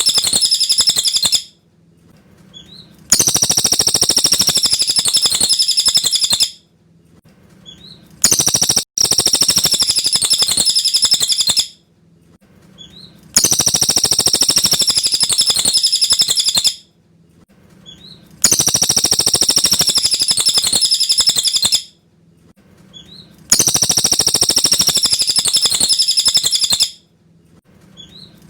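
Cililin bird song: a loud, rapid, high-pitched chattering phrase about three and a half seconds long, repeated about every five seconds with short pauses in between, the phrases alike as in a looped recording.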